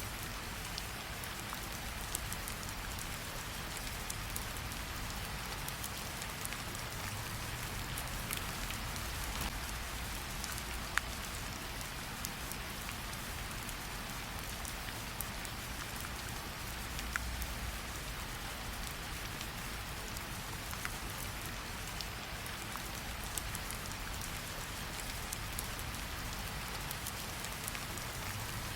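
Steady rain falling, mixed with a campfire crackling: occasional sharp pops stand out over the even patter.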